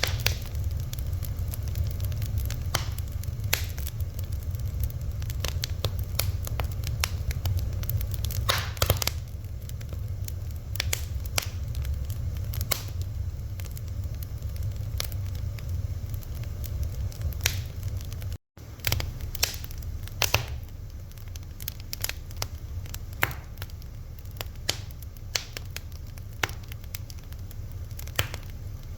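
Fire crackling, with many irregular sharp pops over a steady low rumble. The sound cuts out completely for a moment about two-thirds of the way through.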